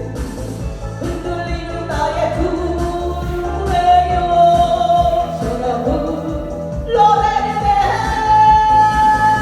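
A woman singing a Korean song over a backing track with a steady beat, holding long notes.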